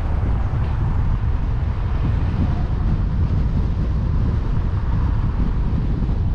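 Car driving along, picked up by a suction-cup-mounted GoPro: a steady low rumble of wind buffeting the microphone, mixed with road and engine noise.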